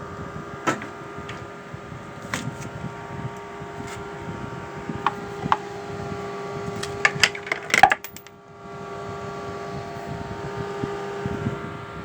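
A steady machine hum of several held tones, with scattered sharp clicks and taps and a quick run of clicks about two-thirds of the way in; the hum cuts out briefly just after that and comes back.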